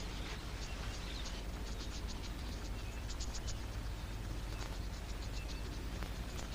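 Natural field ambience: short runs of thin, high clicking chirps over a steady hiss and low hum.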